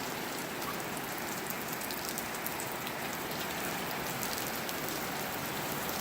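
Heavy tropical rain pouring down steadily, a dense even hiss of rain on surfaces with many fine drop ticks.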